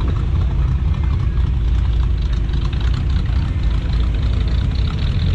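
Classic car engine idling: a low, steady rumble.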